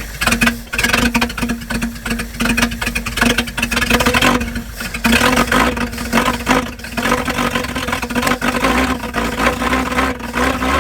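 1953 Packard straight-eight engine running just after a cold start, its first in years, fed from a temporary gas-can fuel rig. It runs loud and uneven, rising and falling in level, with a dip about four and a half seconds in.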